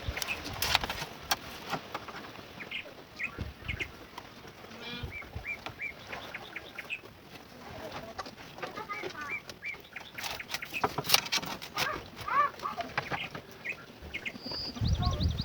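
Small birds chirping in short, repeated notes, with scattered sharp clicks and knocks and a brief high trill near the end.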